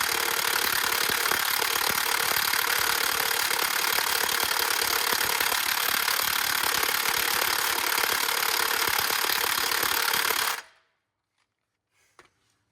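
Cordless impact wrench hammering steadily on a flywheel bolt, then stopping abruptly near the end without breaking the bolt loose.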